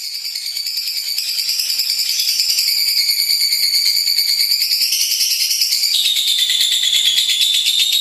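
Lovebird singing one long, unbroken trill of very rapid high notes. It grows louder over the first second or two, and its pitch steps down a little about six seconds in.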